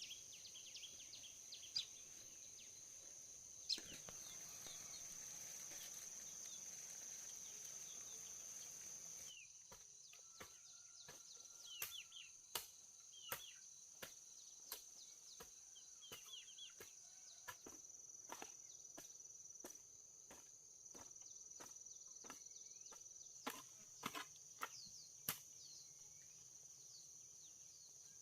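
Faint outdoor rural ambience: a steady high-pitched insect drone with scattered bird chirps and many short sharp clicks.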